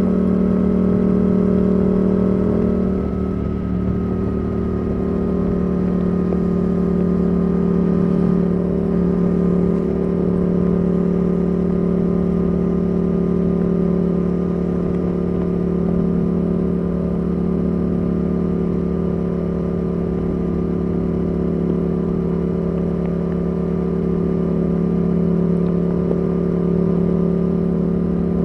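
Yamaha R7's CP2 parallel-twin engine through a Yoshimura R77 exhaust with the dB killer removed, running at a steady cruise. The note dips briefly about three seconds in, then holds steady.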